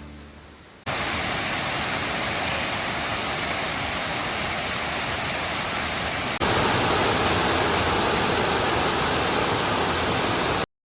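Waterfall rushing steadily, a full, even roar of falling water. A cut about six seconds in brings a slightly louder stretch of the same rush.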